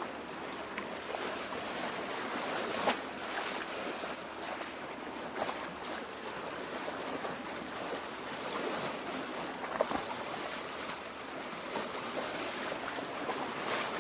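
Small waves lapping at a lake shore: a steady wash of water with irregular little splashes, sharper ones about three seconds in and again near ten seconds.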